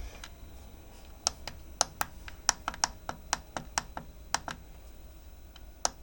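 Buttons on a diesel heater's remote control being pressed rapidly: a quick, uneven string of sharp plastic clicks, about four a second for a few seconds, then one more near the end.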